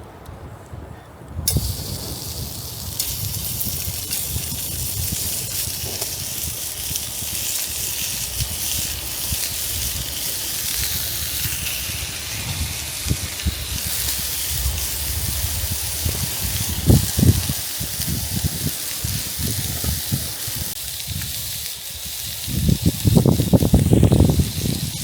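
Food sizzling in a hot pan over a campfire: a steady hiss that starts suddenly about a second and a half in, over low wind rumble on the microphone, with a few knocks and a louder stretch near the end.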